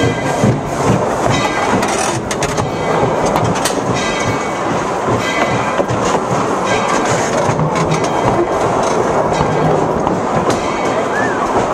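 A narrow-gauge train running on rails: a steady rumble and clatter of steel wheels over the track, with scattered clicks.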